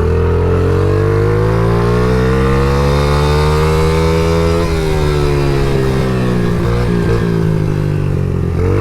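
Honda CRF50 dirt bike's small single-cylinder four-stroke engine running under way; its pitch climbs steadily for about four seconds as the rider holds the throttle, then drops back and holds lower.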